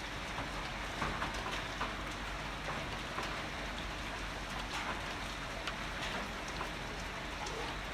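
Heavy rain falling steadily, with many individual drops ticking sharply on nearby surfaces over the even hiss of the downpour.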